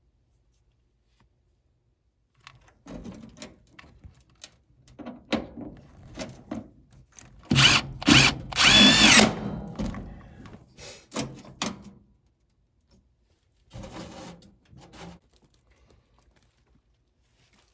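Power drill driving screws to mount a gas furnace's pressure switch: a couple of short trigger pulls, then a longer run with a rising motor whine around the middle. Clattering and clicks of handling come before and after it, and there is one more short burst later on.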